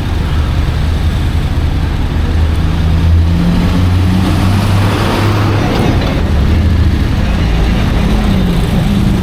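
Honda X-ADV 750's parallel-twin engine running while riding, with a low note that steps in pitch a few times over steady wind and road rush, which swells briefly about halfway through.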